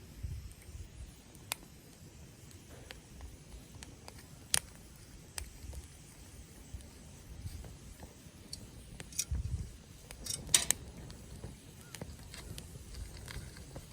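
Wood campfire burning in a fire pit, crackling with sparse sharp pops; a cluster of louder pops comes about two-thirds of the way through.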